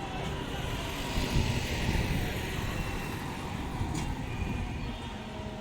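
Steady low rumble of a passenger train running over a railway bridge, with a short click about four seconds in.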